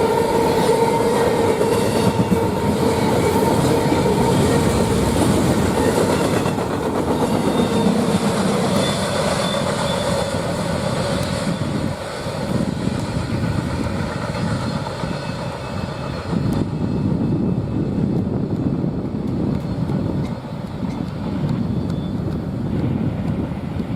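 Freight train rolling past at close range, wheels clacking over rail joints with a steady rumble that thins toward the end. A horn's held chord fades away over the first several seconds.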